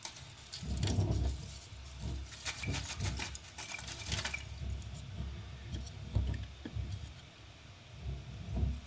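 Handling noise as firelighters are set among wood briquettes and kindling in an open fireplace: soft knocks and scraping, with a stretch of crackly rustling about two to four seconds in.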